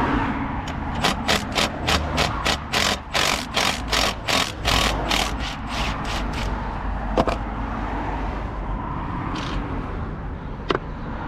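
A hand ratchet clicking in a quick, even run of about four strokes a second for roughly five seconds while a fastener is worked, followed by a couple of single metallic clicks.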